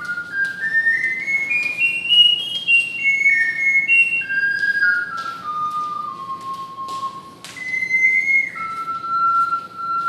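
Small high-pitched ocarina playing a solo melody, one clear whistle-like note at a time: a stepwise climb over the first two seconds or so, then notes stepping back down.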